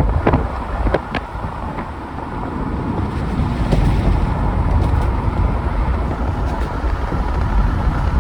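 A car driving along a road, with a steady low rumble and wind buffeting the microphone; a few light clicks in the first second or so.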